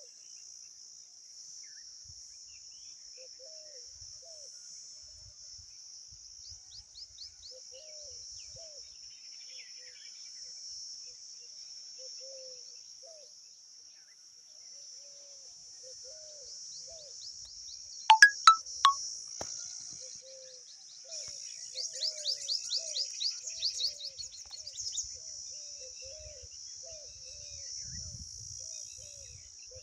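Steady high-pitched chorus of crickets, with a few short, loud bird calls about 18 seconds in and a fast run of high chirps between about 22 and 25 seconds. Soft low calls repeat in the background.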